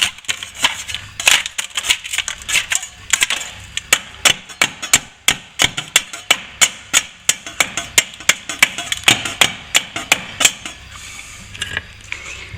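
Metal hand tool chipping and scraping old plaster and tape out of a ceiling-to-wall crack: a fast run of sharp clicks and knocks, steadiest in the middle at about three a second, thinning out near the end.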